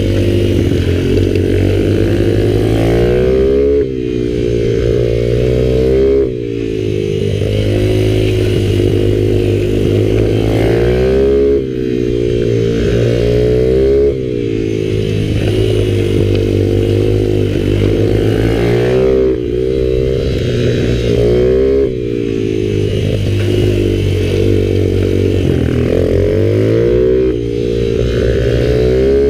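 Minibike engine revving hard, its pitch climbing through each run and dropping sharply every few seconds as the throttle is closed, about seven times over the stretch.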